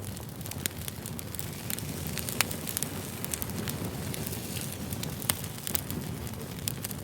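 Wood campfire crackling: irregular sharp pops over a steady low rumble of burning.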